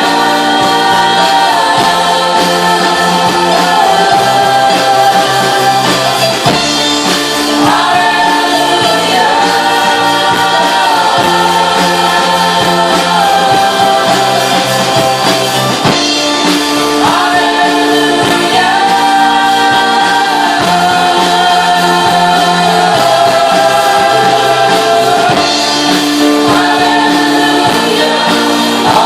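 Live worship band with a group of singers performing a gospel-style praise song, the voices singing long held notes together over the instruments.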